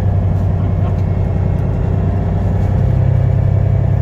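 Peterbilt semi truck's diesel engine running at low speed, steady, its note picking up slightly about three seconds in.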